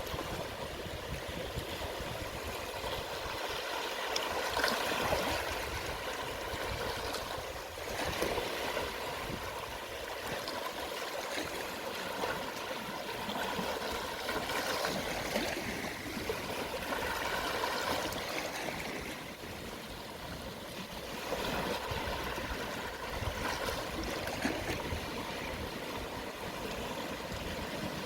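Calm sea waves washing gently onto the shore at low tide: a steady hiss of water that swells and falls back every few seconds.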